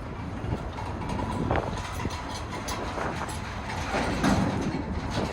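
Intermodal freight train cars rolling past on the rails: a steady rumble of wheels on track with scattered clicks and clanks.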